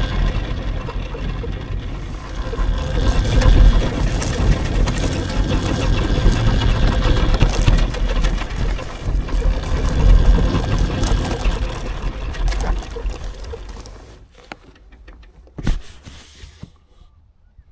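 Electric dirt bike being ridden: a loud, uneven rumble of motor, tyres and wind on the microphone that dies away about fourteen seconds in as the bike slows and stops, with a couple of knocks after.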